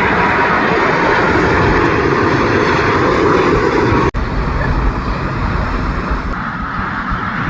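Airplane engines running loud and steady as an aircraft passes. The sound breaks off for an instant about four seconds in and continues a little quieter.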